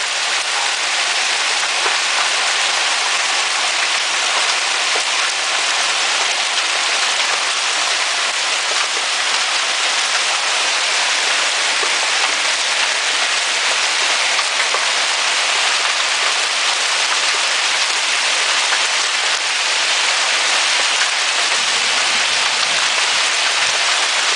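Hail and heavy rain pelting down hard and steadily, a dense, even hiss of countless small impacts on the ground and roofs.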